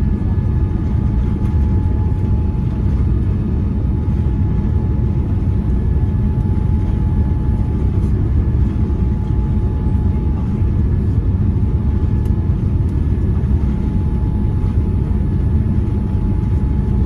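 Boeing 787-9 cabin noise: a steady low rumble of engines and airflow with a thin, steady high tone over it.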